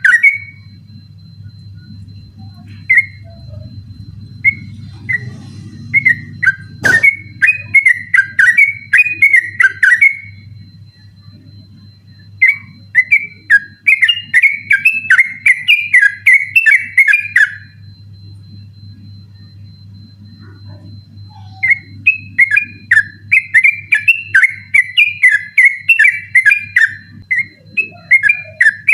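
Yellow-vented bulbul (trucukan) singing its rapid 'ropel' song: long runs of quick whistled notes in several bursts, separated by pauses of a few seconds. A single sharp click about seven seconds in, over a steady low hum.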